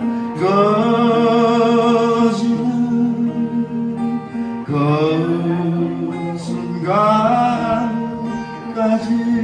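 A singer singing a slow Korean folk song in three long, drawn-out phrases with vibrato, over sustained instrumental accompaniment.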